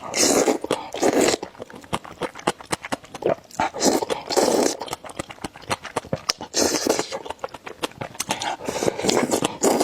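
A person slurping spicy noodle soup in several long slurps, with chewing and short clicks in between.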